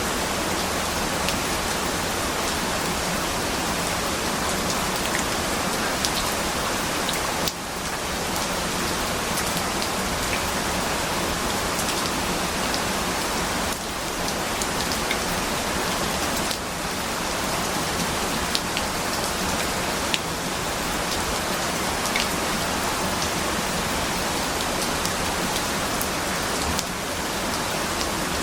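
Steady rain falling on a surface, with scattered individual drop ticks and a few brief dips in loudness.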